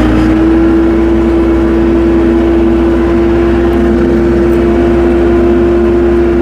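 Tractor engine held at steady high revs while driving, with a strong steady whine over a low rumble.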